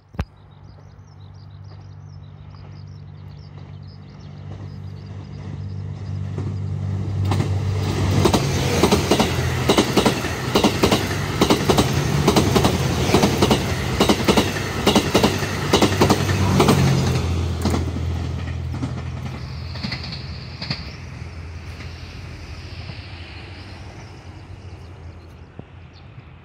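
The Twilight Express Mizukaze, a JR West 87-series diesel-electric tour train, passing close by on the track. A low engine drone swells as it approaches. Then comes a steady clickety-clack of wheels over rail joints for about ten seconds as the cars go by, and the sound fades as the train moves away.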